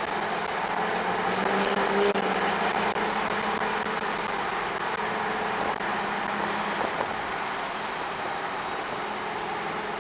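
2007 Porsche Cayman S's 3.4-litre flat-six running under load on track, heard from inside the cabin over steady road and wind noise. The engine note climbs briefly about two seconds in, then holds steady and eases off slightly.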